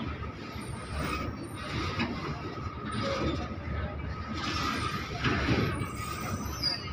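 Loaded BOXN HL open freight wagons rolling past close by: a steady rumble of the wheels with the wagons' bodies and couplings rattling and clanking, swelling about once a second. A thin steady squeal runs underneath.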